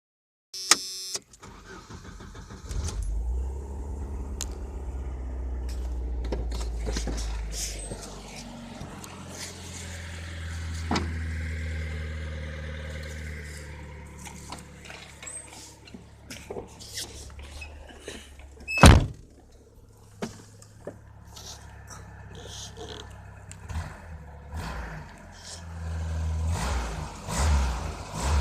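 Jeep Comanche pickup engine starting and running, with the knock that the owner reports, and rising in revs near the end. A single sharp bang about two-thirds of the way through is the loudest sound.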